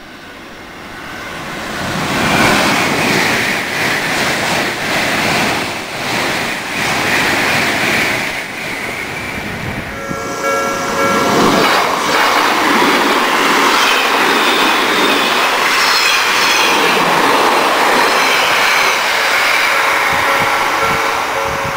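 Electric trains passing close by: a long, loud rush of wheel and rail noise. A Japanese level-crossing warning bell rings briefly about ten seconds in and again near the end as a commuter train runs past the crossing.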